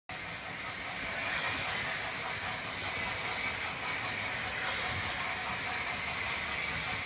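O gauge model train running on the layout: a steady mechanical whir with hiss, starting suddenly.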